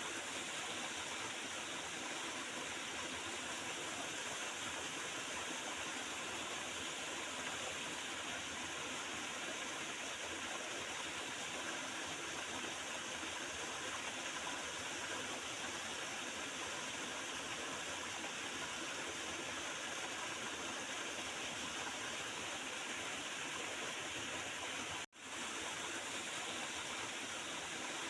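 Small river flowing over stones, a steady gurgling rush of water. About 25 seconds in, the sound cuts out for a split second and then resumes, an edit or loop point in the recording.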